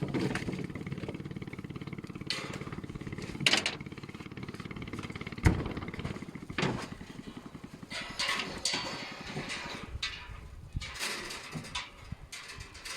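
A small engine running steadily with a fast, even pulse, overlaid by a few sharp knocks and, later, a stretch of clattering.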